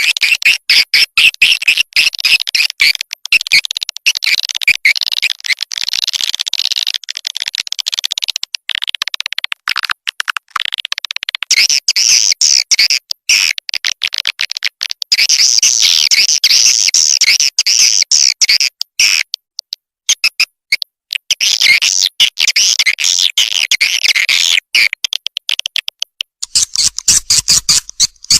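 Swiftlet calling track: a dense chorus of high swiftlet chirps and twittering with rapid clicking, in long stretches broken by short gaps. It is a lure sound played to draw swiftlets into a nesting house.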